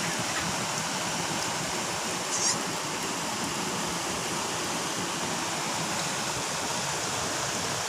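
Heavy rain pouring steadily, a constant hiss of falling water, with one brief sharp sound about two and a half seconds in.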